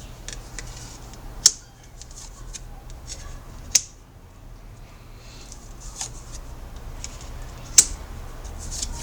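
Tarot cards being handled on a table: a soft rustle with a few sharp snaps as cards are flipped or laid down, one near the start, one about four seconds in and one near the end.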